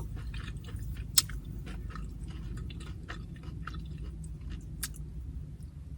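Close-miked chewing of carne asada chips (tortilla chips loaded with steak), with many small scattered clicks and crunches from the mouth. A low steady hum lies underneath.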